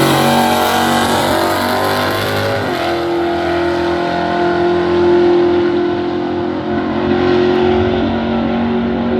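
Drag race car engine running at full throttle down the strip, the pitch of its note jumping once about three seconds in and then holding nearly steady.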